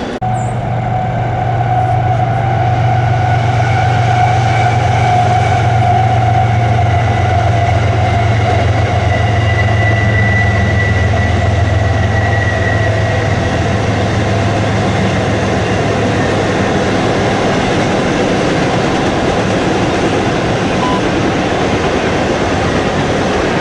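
A train passing close by: a deep, steady engine rumble for roughly the first half fades out after about fifteen seconds, leaving the rolling noise of the cars on the rails.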